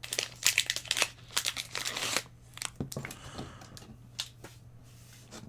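Lorcana trading cards being handled and flipped through, sliding and snapping against each other: a dense rustle for about two seconds, then a few scattered clicks.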